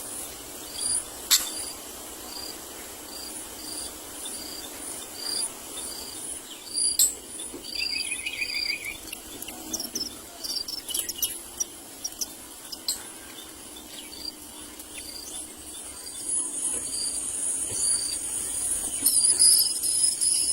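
An insect chirping steadily at about two chirps a second. A short trilled call comes in about eight seconds in, and near the end a steady high insect buzz takes over.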